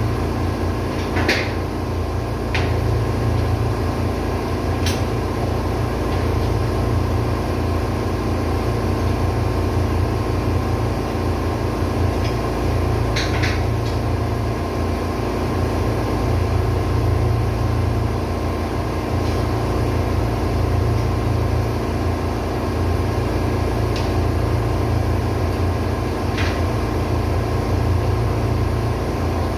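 Caterpillar auxiliary diesel engine running steadily, a dense constant engine-room drone with a heavy low rumble. A few short clicks sound over it.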